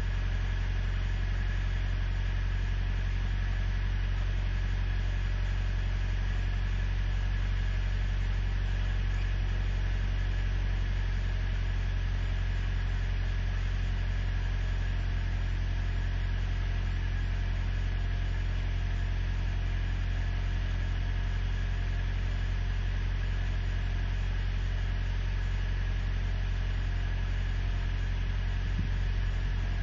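Truck engine idling steadily, just cold-started at six below zero.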